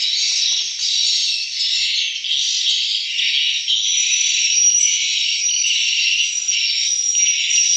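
Dense, continuous high-pitched twittering of many swiftlets, with a faint steady high tone running under it.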